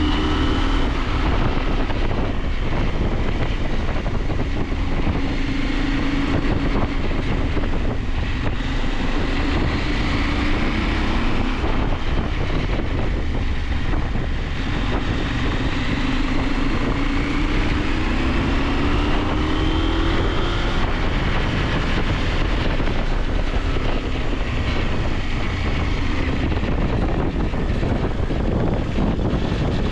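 KTM 890 Adventure's parallel-twin engine running under way, its revs rising and falling several times through the curves, with steady wind noise on the microphone.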